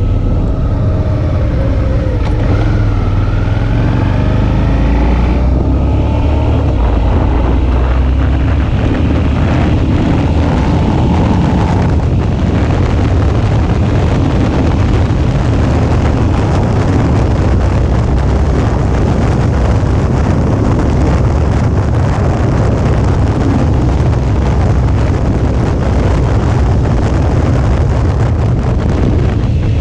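Suzuki V-Strom 650's V-twin engine running under way, its pitch rising and falling over the first few seconds as the throttle changes, then holding steady, with wind rushing over the microphone.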